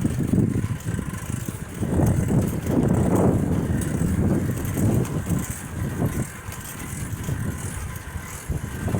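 Wind buffeting the microphone of a camera riding along on a bicycle, a low rumble that swells and drops in gusts.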